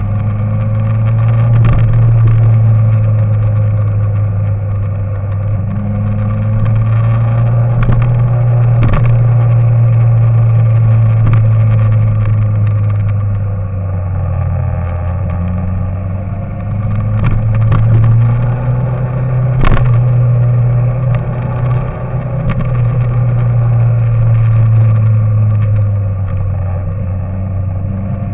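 A steady, loud, low motor-like drone that slowly drifts up and down in pitch, with occasional sharp clicks.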